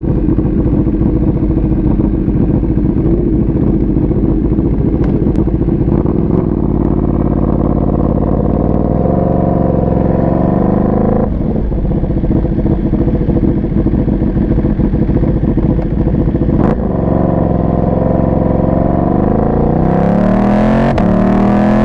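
Ducati 1299 Panigale's L-twin engine through an Austin Racing GP2 full-system exhaust while being ridden. It holds a steady note, climbs in pitch under acceleration, then drops suddenly about eleven seconds in. Near the end it climbs steeply again. The sound is loud and distorted because the microphone sits close to the exhaust and is overloaded.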